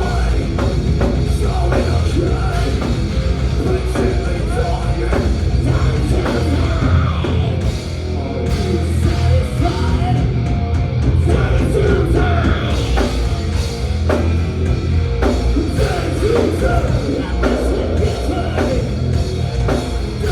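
Live thrash metal band playing: distorted electric guitars, bass and pounding drums, with shouted vocals.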